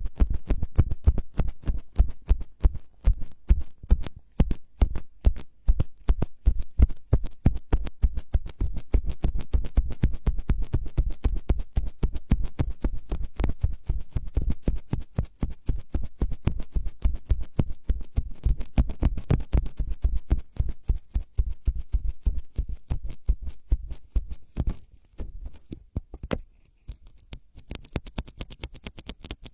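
ASMR trigger sounds: rapid scratching or brushing strokes right on a microphone, about five a second, each with a deep thump. The strokes thin out and grow quieter near the end.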